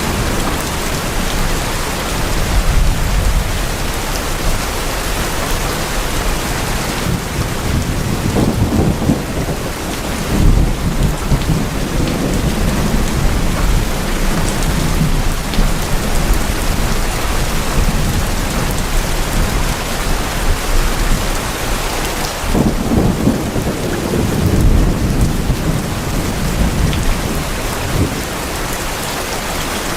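Rain drumming steadily on tin roofs, with low rolling thunder swelling up several times.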